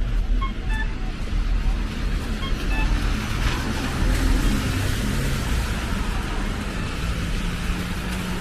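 Road traffic: a car passing, its noise swelling about three to four seconds in, over a steady low rumble.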